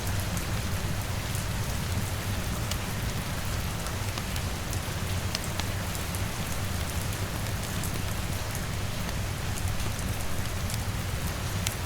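Steady rain pattering on a window and roof, with a low steady rumble underneath and scattered sharp crackles from a wood fire.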